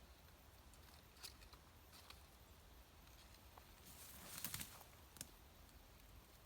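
Quiet rustling and crackling of forest-floor litter and twigs underfoot as someone walks slowly through undergrowth, with a louder burst of crackling a little after four seconds and a single sharp snap about a second later.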